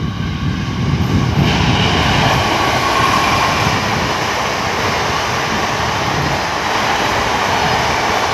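An Indian Railways express train, hauled by a WAP-4 electric locomotive, passing close at speed with a steady, loud rumble and rush of wheels on rail. The rush swells about a second and a half in as the coaches come level, then holds.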